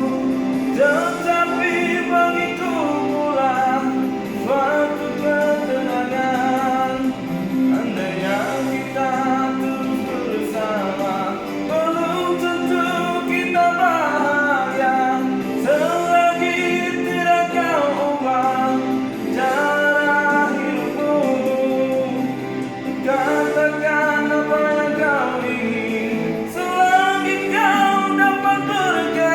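A voice singing a slow song over instrumental accompaniment, in long phrases with held notes, above a steady low backing.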